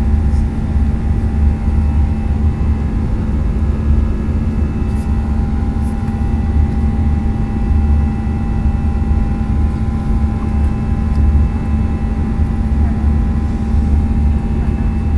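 Steady engine and airflow noise inside an airliner cabin in flight: a constant low drone with a few steady tones above it.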